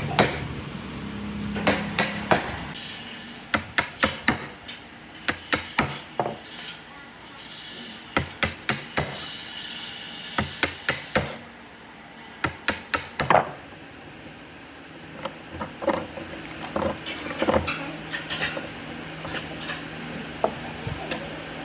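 Hand-tool work on wood: repeated sharp knocks and taps, coming in quick runs of several strikes with short pauses between.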